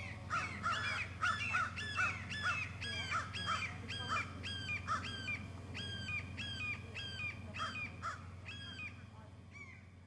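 A bird giving short, harsh, caw-like calls over and over, about two or three a second, trailing off near the end, over a steady low hum.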